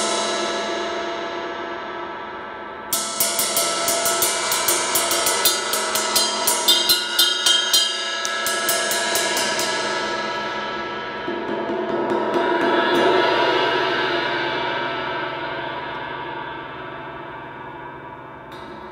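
A cracked Zildjian 20-inch K Custom ride cymbal being sound-tested with a stick. It rings out, is played again in a quick run of strokes from about three seconds in, then builds to a loud wash near the middle that slowly decays away.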